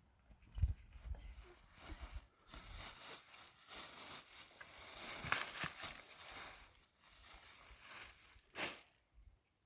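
Irregular rustling and crinkling, with a brief low thump about half a second in and a louder short scrape shortly before the end.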